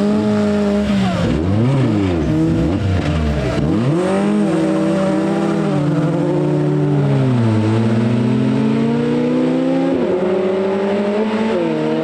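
Rally car engine on a stage, the revs dropping and rising quickly several times through the first few seconds, then climbing in one long steady rise as it accelerates away.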